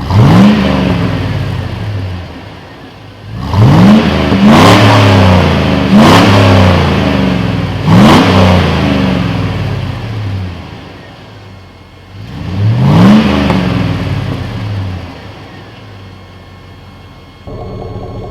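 A 5.3L LM7 V8 in a 1999 Chevrolet Silverado being free-revved through a Cherry Bomb straight-through muffler: about six sharp throttle blips, each climbing quickly and then dropping slowly back toward idle. A steadier, quieter engine sound follows near the end.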